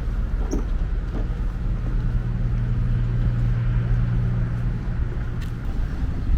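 A steady, low engine hum, strongest in the middle stretch, with a few faint clicks.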